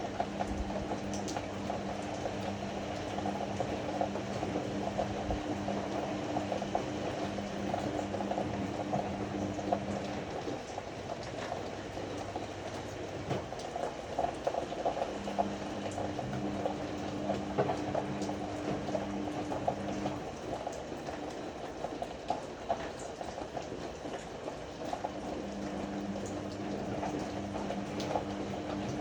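Ariston AML125 washer-dryer running a wash: water sloshing and splashing in the tumbling drum throughout, with the drum motor humming in spells of several seconds, each broken by a pause of about five seconds.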